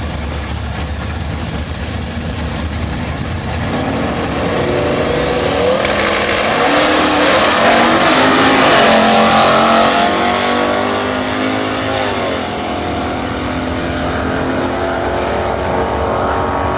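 Twin-turbo big-block drag car accelerating down the strip. The engine note builds and rises in pitch, loudest about six to ten seconds in with a high whistle climbing over it, then drops in pitch and carries on running.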